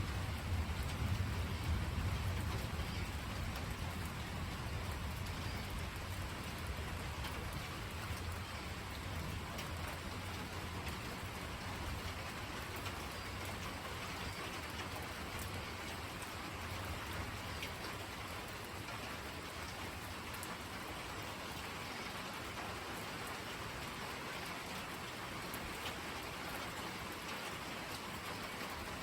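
Steady rain falling in an even hiss, with a deep rumble of thunder fading away over the first several seconds.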